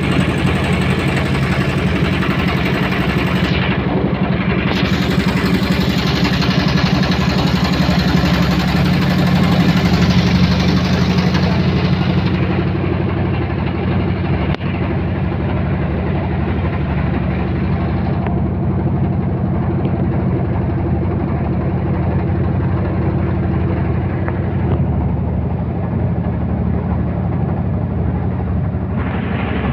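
Boat engine running steadily, a loud, even low throb. A hiss over it drops away about twelve seconds in.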